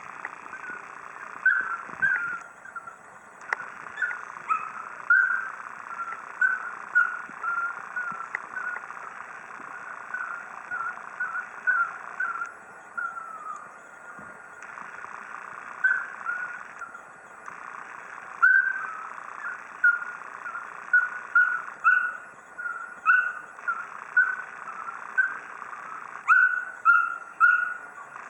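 A dog whining over and over in short, high-pitched whines, one to two a second, more often toward the end: she is whining to be let out.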